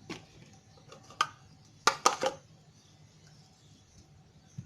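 Plastic ice-pop moulds being handled, giving a few sharp clicks and knocks, loudest as a quick cluster of two or three knocks about two seconds in.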